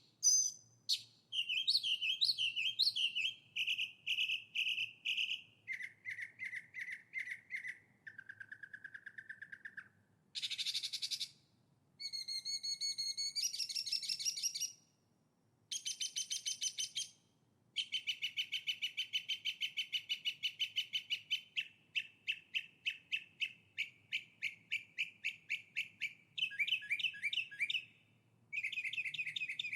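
Songbirds singing a string of different songs, mostly fast trills of rapidly repeated notes and some whistled phrases. Each song breaks off abruptly into a brief silence before the next begins.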